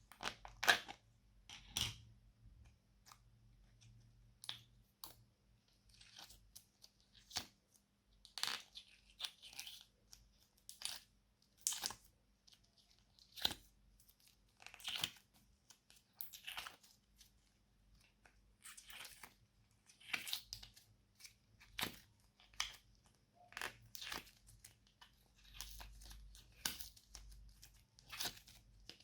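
Slime being kneaded and stretched by hand: short, crackly, tearing squelches at irregular intervals, roughly one every second or two.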